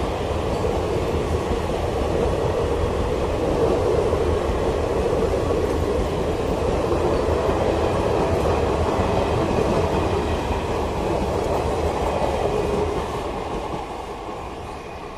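Coaches of an express passenger train running past at speed: a steady rumble of wheels on rails that starts to fade near the end as the last coach goes by.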